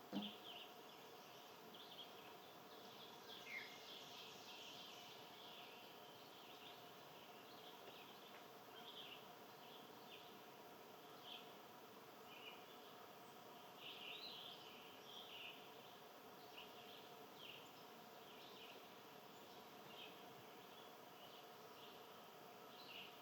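Faint, scattered short chirps from small birds, coming irregularly every second or so over a low steady background hum, with a soft knock right at the start.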